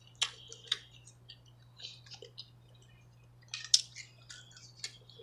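Close-miked eating: scattered soft wet clicks and smacks from chewing a mouthful of steak tips and loaded baked potato, with a sharper click about three and a half seconds in.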